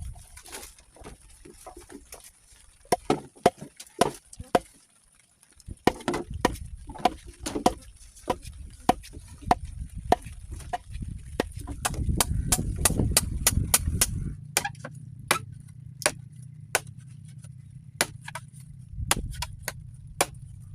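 Repeated sharp strikes of a tool on wood, irregularly spaced at about one to three a second, coming faster for a couple of seconds past the middle.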